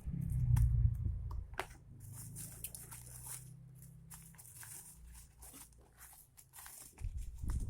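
Packaging being handled and torn open: crinkling and tearing in two stretches, with scattered clicks and dull bumps of handling close to the microphone near the start and near the end.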